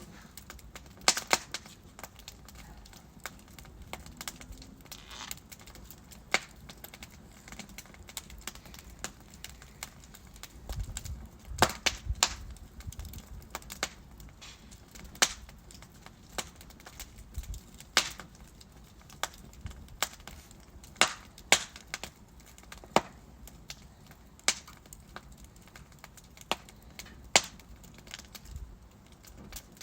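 Logs burning in a fireplace, crackling: irregular sharp pops and snaps over a soft, steady low hiss, with the pops bunching together in places.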